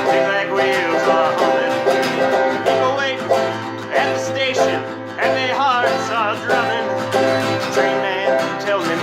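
Banjo picking a country tune in a quick run of plucked notes, with no singing.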